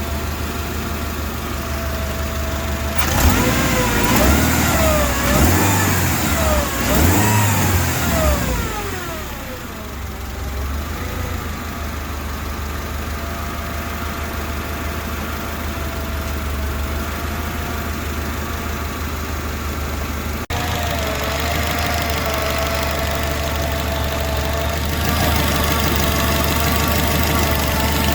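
Mercedes-Benz M111 four-cylinder engine running with a steady whirring whine from the valve train under the valve cover, which the owner says is not the supercharger. About three seconds in it is revved three times, the pitch rising and falling, then settles back to a steady idle with the whine still there.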